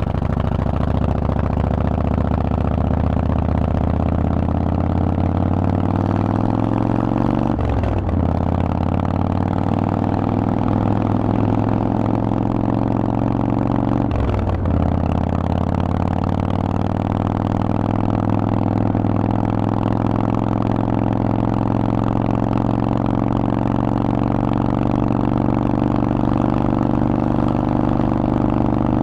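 Harley-Davidson Forty-Eight's 1200 cc V-twin engine running through a Vance & Hines exhaust under way, revs climbing steadily in gear. It shifts up twice, about 8 and 14 seconds in, the pitch dropping at each shift and climbing again. Near the end it settles to an almost steady pitch.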